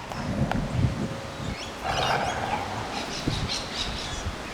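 Gusty wind rumbling on the microphone, with small birds chirping in the background from about halfway through.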